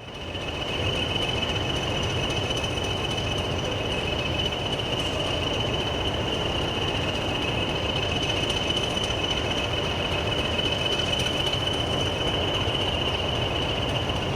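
Train running on the line, a steady rumble carrying a constant high-pitched tone.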